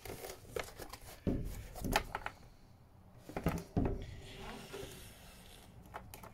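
Irregular knocks, clicks and rubbing of a motorcycle's plastic fairing panel being handled and tugged, as its plastic foot is worked out of a rubber boot.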